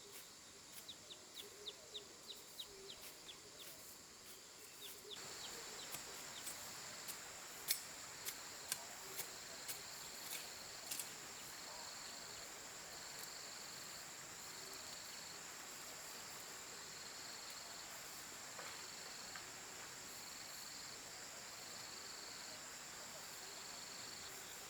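Insects calling: a steady high-pitched drone that starts about five seconds in, and a pulsing call that repeats about once a second. In the first eleven seconds a series of sharp clicks or taps runs at about two a second.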